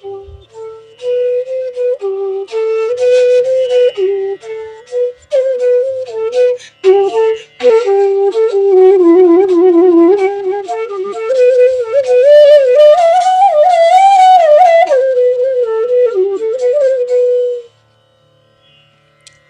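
Bansuri, the North Indian bamboo flute, playing a melody: quick ornamented notes at first, then longer notes with a wavering pitch that climb to a high held passage and settle back down. The playing stops about two seconds before the end.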